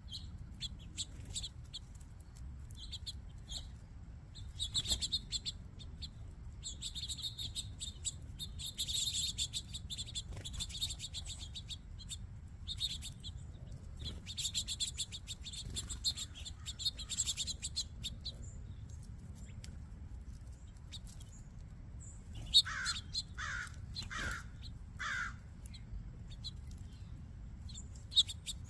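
A mixed flock of small finches and sparrows chirping and twittering at a feeder, in dense runs of quick high notes. Four louder downward-sliding calls come about three-quarters of the way in, over a steady low rumble.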